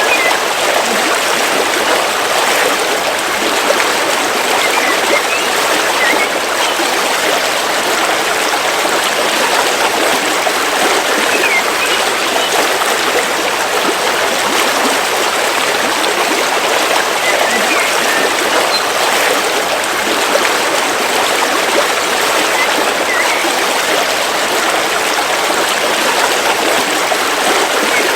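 River water flowing with a steady rushing, and a few faint, short bird chirps here and there.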